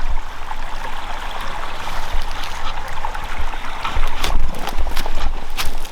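Stream water running with a steady rush, with wind buffeting the microphone. Footsteps come in over the second half.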